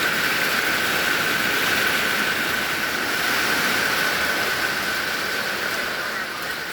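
Heavy rain pouring down, a steady even hiss, with a thin steady high tone running through it.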